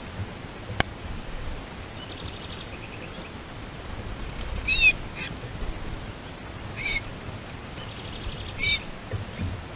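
Birds calling: three loud, short harsh calls about two seconds apart, with fainter rapid trills between them. A single sharp click sounds just under a second in.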